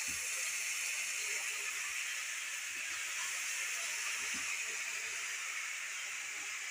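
Freshly washed koinar saag leaves sizzling in hot oil with fried onions in a kadhai: a steady hiss, with a few faint knocks.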